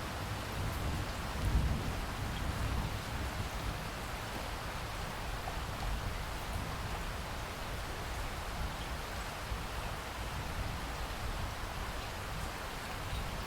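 Steady rain falling, with a low rumble of distant thunder in the first couple of seconds that fades into the rain.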